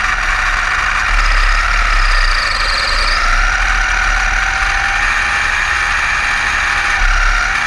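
Electric motor and gear drive of a Kyosho Blizzard DF-300 RC snowcat, converted from nitro to electric, whining steadily as it runs, the pitch shifting slightly with speed.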